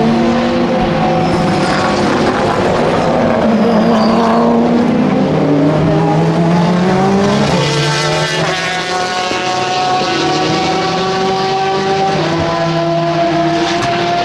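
Several race cars' engines running hard as they pass, overlapping one another, with their pitch stepping up and down through gear changes.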